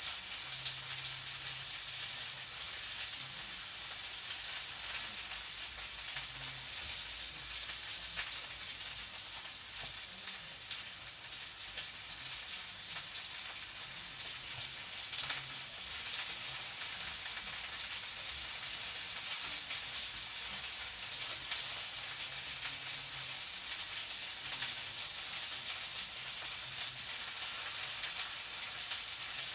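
Food frying in a pan, sizzling steadily with faint scattered crackles.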